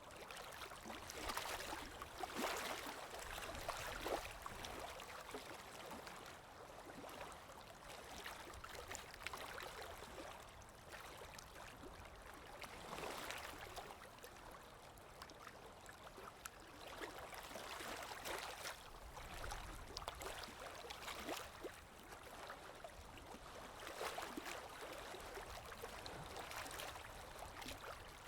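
Water lapping, with wind: small waves slosh and splash in irregular swells every few seconds over a steady rushing hiss.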